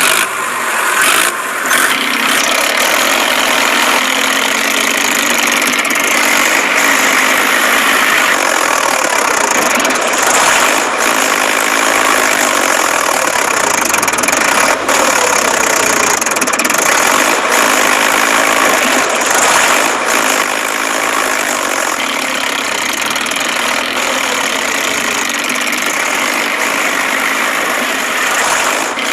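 An engine running steadily, its pitch rising and falling briefly several times.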